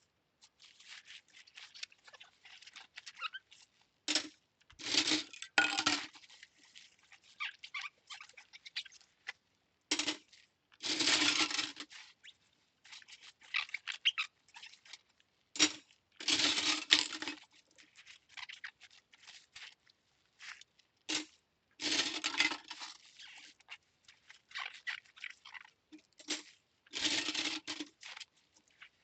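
Cutlery being washed by hand: small clinks and scrapes of metal utensils and soapy scrubbing, with a louder rushing burst lasting a second or so about every five or six seconds.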